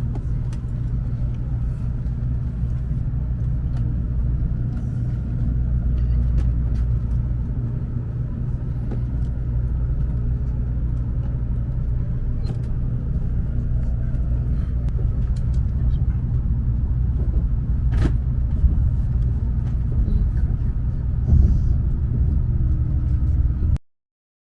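Steady low rumble inside a moving Thunderbird limited express train carriage, with a sharp click and a knock near the end; the sound cuts off abruptly just before the end.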